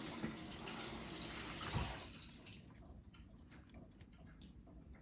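Running water, like a household tap, that is shut off about two seconds in, leaving faint scattered clicks.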